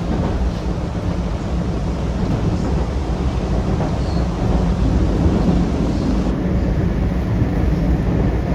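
MBTA Red Line subway car running along the track, a steady low rumble of wheels and running gear heard from inside the moving car.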